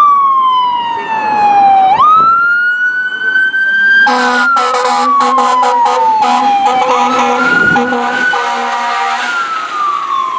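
Fire apparatus electronic siren on wail, its pitch sliding slowly down, back up, and down again. An air horn joins about four seconds in, first in short blasts and then held for several seconds before stopping.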